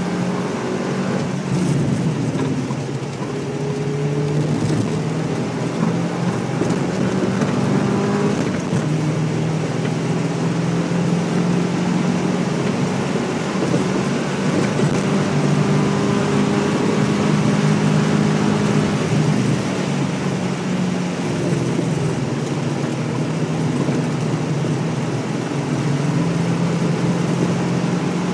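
Porsche 944 S2's 3.0-litre four-cylinder engine under way on the track, heard from inside the cabin, its pitch rising and falling several times with throttle and gear changes. A steady rushing of tyre and wind noise runs beneath it.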